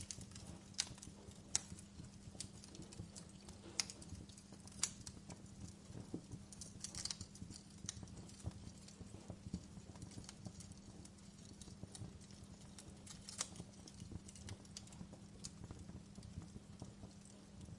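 Wood fire crackling in a fireplace: irregular sharp pops and snaps over a low steady rumble, with a brief cluster of crackles about seven seconds in.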